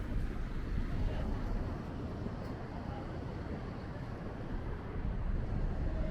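Steady low rumble of city background noise, with no single sound standing out.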